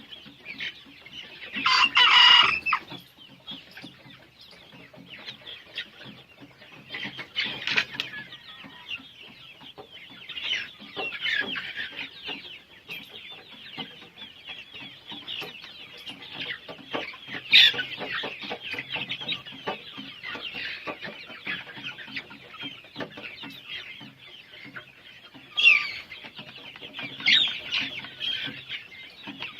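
A flock of 65-day-old Golden Misri chickens calling continuously, a dense chatter of cheeps and clucks. One loud call comes about two seconds in, with sharper single calls standing out now and then.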